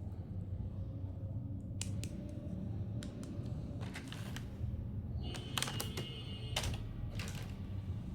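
Irregular light clicks and taps of plastic toys or packaging being handled, with a brief high squeak about five and a half seconds in, over a steady low hum.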